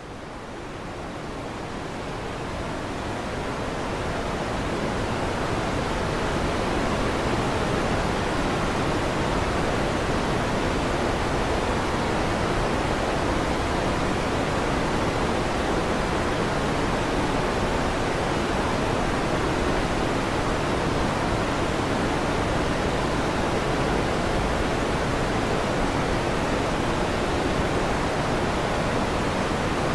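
Electric fan running with a steady whooshing noise, fading in over the first several seconds and then holding even.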